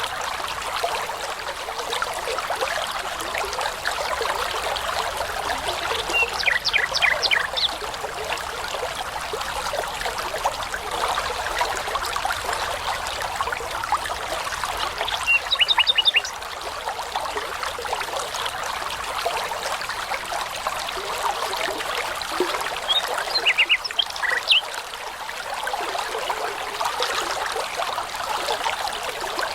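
A babbling brook trickling steadily, with songbirds singing over it in three short bursts of quick repeated high notes.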